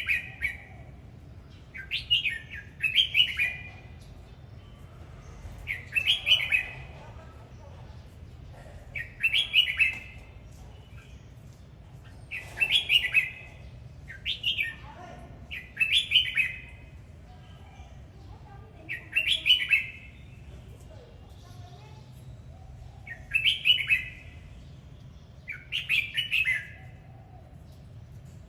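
Red-whiskered bulbul singing short, bright phrases repeated every two to three seconds, over a steady low hum.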